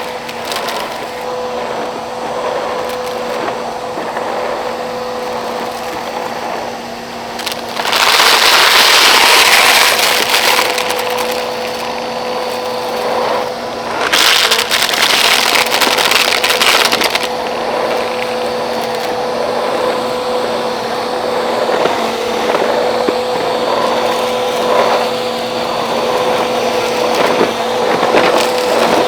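Bissell Powerforce Helix upright vacuum cleaner running with a steady motor whine while sucking up rocks and dirt, which crackle and rattle through it. The pickup gets much louder twice, for a couple of seconds about eight seconds in and again around fourteen seconds in.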